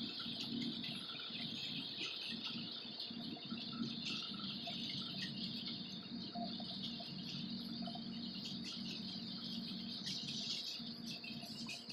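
A train running across a steel truss rail bridge: a steady low rumble with a constant high hiss above it.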